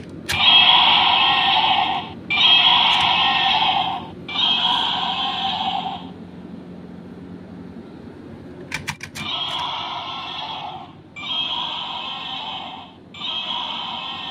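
Battery-operated toy's electronic sound effect played through a small speaker: three buzzy bursts of about two seconds each, a few clicks, then three more bursts.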